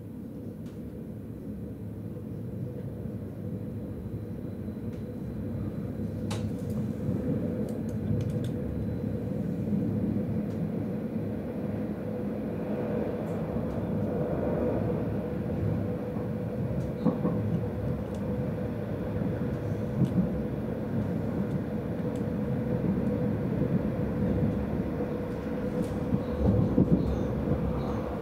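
Running noise inside a Stadler FLIRT electric multiple unit: a steady rumble of wheels on rail with a level hum, growing louder as the train gathers speed past the platform. There are a few faint clicks.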